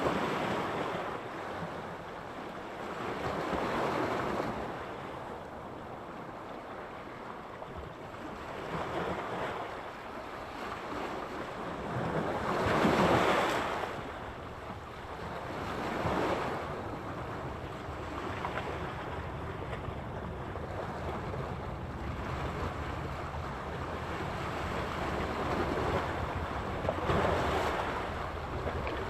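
Sea surf: waves washing in and breaking, the sound swelling and falling back every few seconds, the loudest wave breaking about halfway through.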